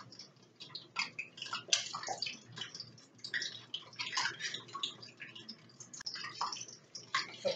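Strips of Spam frying in hot grease in a skillet: an irregular sizzle of crackles and pops as more pieces are laid in with metal tongs.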